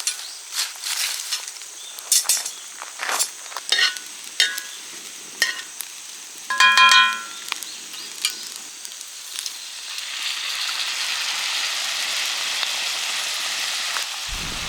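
Fried rice cooking in a pan over a campfire: sharp clicks and knocks of utensils, with one ringing metal clink about seven seconds in, then about ten seconds in a steady frying sizzle starts.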